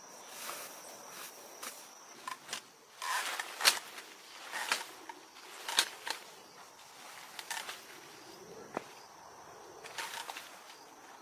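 Irregular rustles, clicks and light knocks, the loudest about three and a half seconds in, with a faint steady high tone during the first two seconds and again from about eight to ten seconds.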